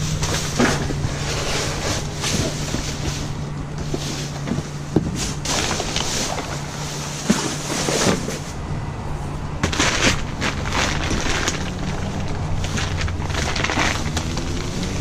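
A steady low motor hum, with scattered rustles and clunks of things being handled.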